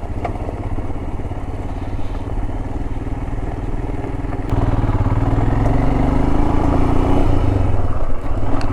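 Royal Enfield Himalayan's single-cylinder engine running under way on a dirt road. About halfway through it gets louder as the throttle opens, the pitch rising for a couple of seconds before easing off.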